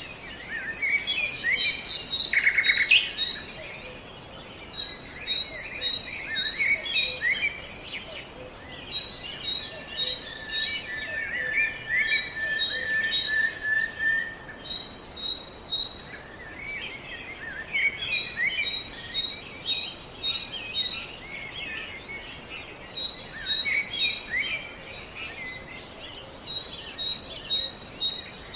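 Small birds chirping in a busy chorus of short high notes, several at once, with one bird repeating a thin high note in quick runs.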